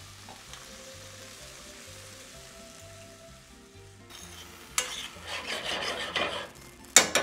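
Frozen peas frying softly in olive oil in a stainless steel sauté pan. About four seconds in, a metal spoon stirs them and the sizzle and scraping grow louder. Near the end the spoon knocks sharply against the pan.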